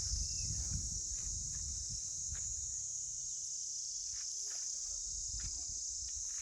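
Insects chirring in a continuous, even high-pitched drone, with a low rumble and a few faint clicks underneath.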